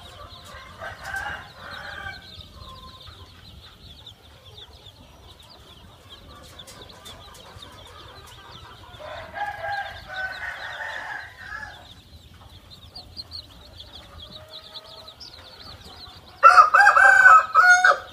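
Khmer native roosters crowing three times, a fainter crow about a second in, a longer one about halfway through and the loudest near the end. A dense layer of high chirping runs underneath.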